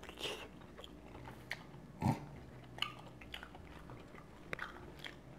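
Close-up chewing of tender oxtail meat: soft mouth sounds and a string of small, scattered clicks, with one louder click about two seconds in.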